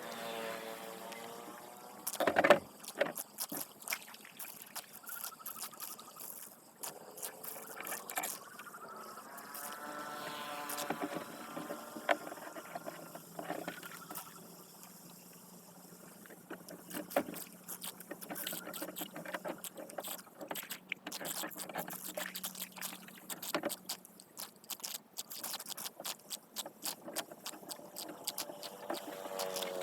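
Wet clearing work in shallow water: irregular splashes, knocks and rustles as grass and debris are pulled from a flooded drain.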